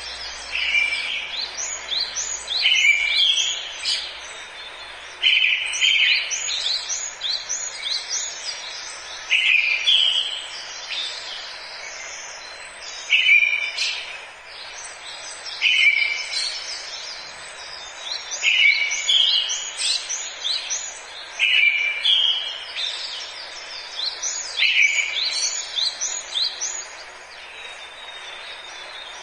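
Forest birdsong: one bird repeats a short song phrase every few seconds, while other birds chirp higher and faster, over a steady background hiss of forest ambience.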